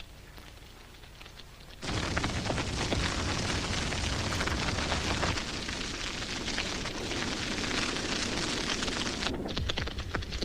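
A grass fire burning with dense crackling and popping. It is faint at first, then about two seconds in it suddenly becomes much louder and stays loud.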